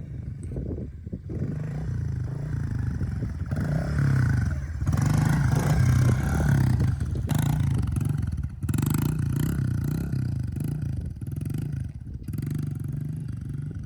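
Dirt bike engine running and being revved up and down, loudest about halfway through.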